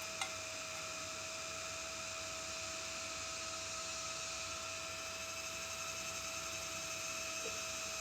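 An electric fan motor running with a steady hum and hiss, one unchanging tone over it, and a single short click just after the start.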